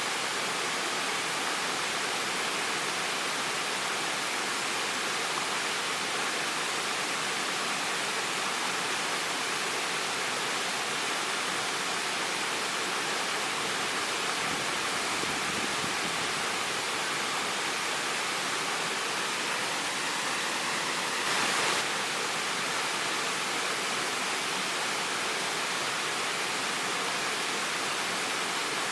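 Waterfall: water falling and splashing in a steady rush, with a brief louder surge about two-thirds of the way through.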